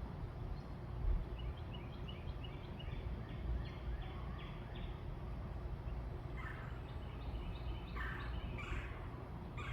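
Birds calling: a quick run of short, repeated high notes, then several harsher calls in the last few seconds, over a steady low rumble.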